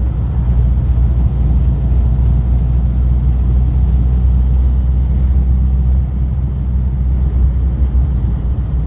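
Classic car's engine and road noise heard from inside the cabin while driving, a steady low drone that holds evenly, dipping slightly about six seconds in.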